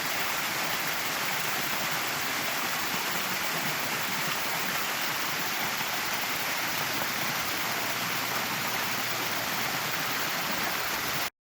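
Steady rush of a small artesian waterfall: water pouring out of the base of a tree stump. It cuts off suddenly near the end.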